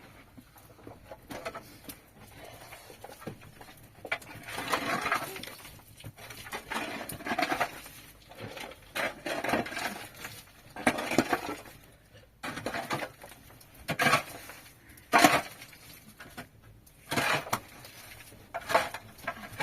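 Intermittent clattering and knocking of household items being handled, in short bursts every second or two.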